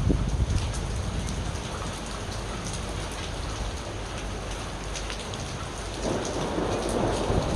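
Steady rain falling on a surface with thunder: a low rumble dies away right at the start, and another rumble of thunder builds over the last second and a half.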